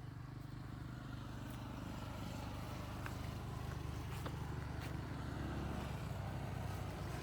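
A motor engine running steadily at a low, even pitch, slowly growing louder, with a few faint clicks over it.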